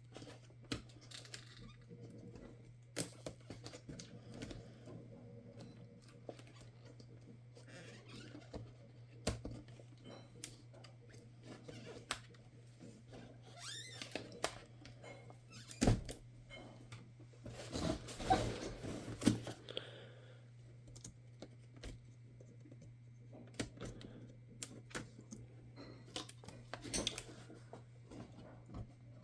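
Small clicks, taps and scrapes of hands and tools working on a laptop's plastic and metal parts during disassembly. There is a sharper knock about halfway through and a short stretch of scraping and rustling just after it, over a steady low hum.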